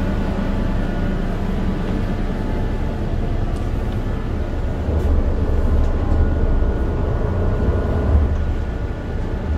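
Passenger ferry's engine running under way, heard on board as a steady deep rumble that gets a little louder about five seconds in.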